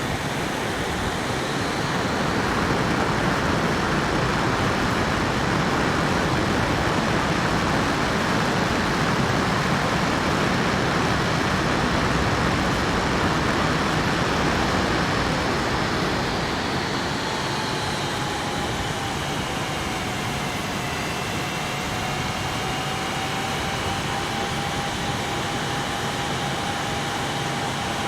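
Jet airliner engines at takeoff: a steady rushing roar that swells about two seconds in and eases around sixteen seconds, after which a steady engine whine comes through the noise.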